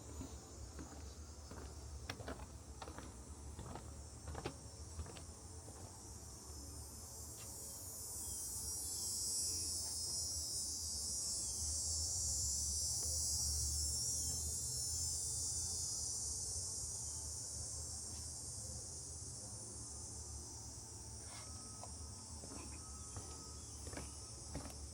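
A cicada's high buzzing call swells up about a third of the way in, holds for several seconds and fades away again, over a steady low rumble.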